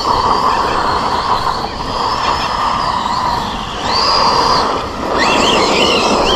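Team Associated Rival MT10 RC monster truck running on a 3S battery: the electric motor and drivetrain whine over a steady rush of tyre noise, and the whine rises in pitch as it speeds up, about four seconds in and again about five seconds in.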